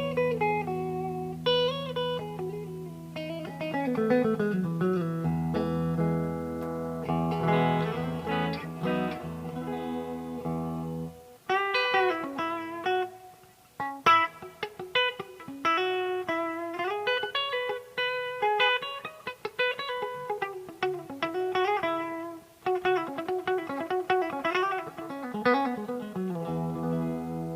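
Yamaha STH 500R electric guitar played solo: melodic single-note lines with sliding and bent notes over ringing low notes, with brief pauses between phrases.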